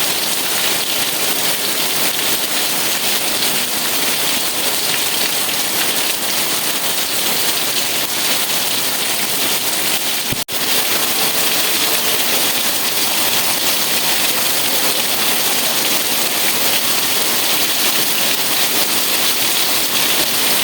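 Steady heavy rain, an even hiss strongest in the high range, with one momentary dropout about halfway through.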